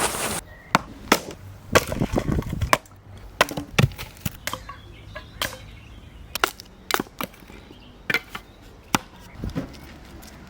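Firewood being chopped with an axe: a series of sharp chops and cracks at irregular intervals, with a longer splintering, rattling stretch about two seconds in.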